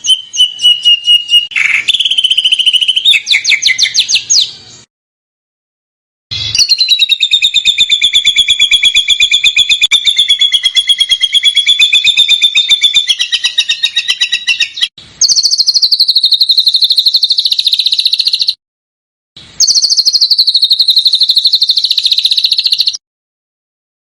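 Recorded songbird song of the rapid-fire "tembakan" kind: very fast trills of tightly packed notes in four long phrases, the longest about nine seconds. Each phrase cuts off abruptly into a brief dead silence.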